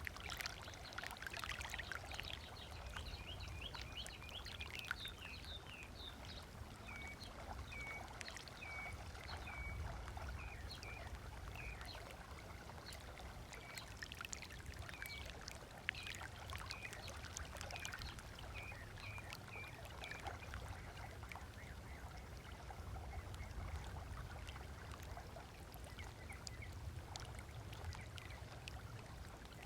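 Small waves lapping and splashing on a sandy lakeshore, with birds calling over it. Through the middle a bird repeats a short chirp about once a second.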